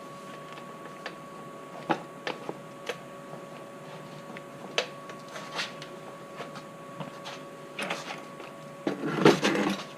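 Scattered light clicks and knocks of objects being handled, with a louder rattling clatter about nine seconds in, over a steady faint electrical hum.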